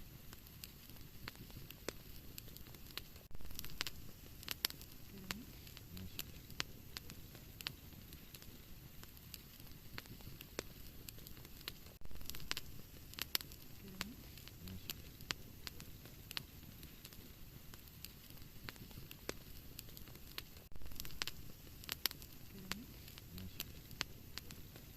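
Wood fire in a fireplace crackling, with frequent sharp pops and snaps over a steady low hiss. A louder stretch and a few low pops come back about every nine seconds, as in a looped recording.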